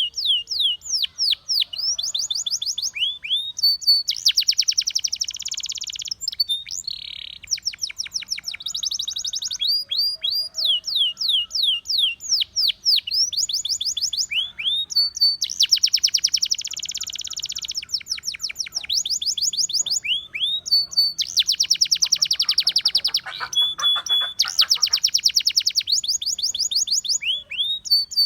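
Russian singing canary in full song. Runs of quick whistled notes sweeping downward, several a second, alternate with long, very fast rolling trills.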